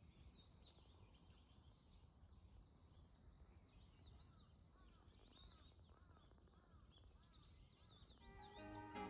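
Faint birdsong: repeated short, arching chirps, with a lower series of calls in the middle. Soft music fades in near the end.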